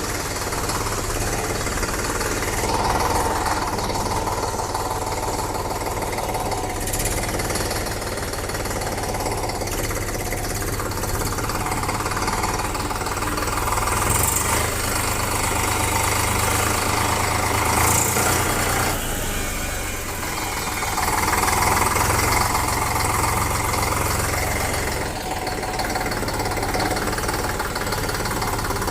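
Eicher 485 tractor's diesel engine running steadily, its level swelling slightly now and then.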